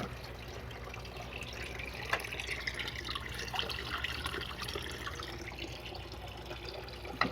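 Water running into an aquaponics filter tank as it fills back up, a steady trickle with a few faint drips.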